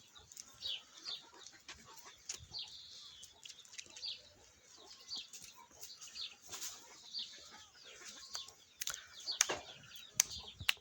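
Small birds chirping repeatedly in short, high, falling notes, with a few sharp clicks near the end.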